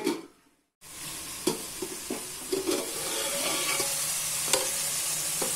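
Chunks of bottle gourd frying in oil with onion, tomato and spices in an aluminium pot: a steady sizzle, with a few light metal clinks. The pieces are softening as they cook. There is a moment of silence about half a second in.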